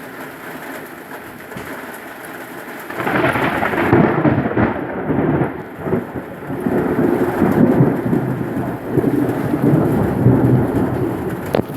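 Steady rain, then about three seconds in a long roll of thunder begins and rumbles on in several swelling waves until near the end.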